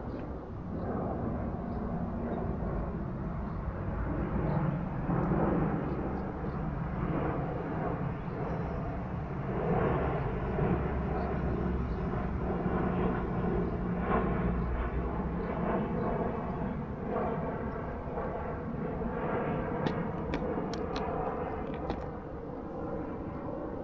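Aircraft passing overhead: a steady engine drone with several held tones, loudest in the middle and easing near the end. A few short clicks come near the end.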